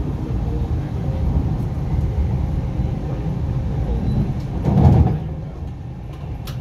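Interior running noise of an MTR East Rail Line R-train electric multiple unit: a steady low rumble of wheels on track and traction equipment, with a short louder surge about five seconds in, after which it turns quieter.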